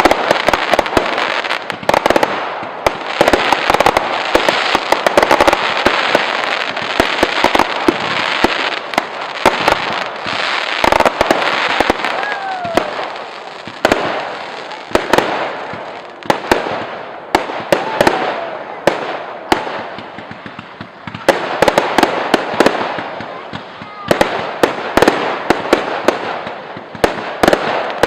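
Fireworks display: a dense run of bangs over continuous crackling, with a few short whistles rising and falling in pitch, thinning out briefly about two-thirds of the way in.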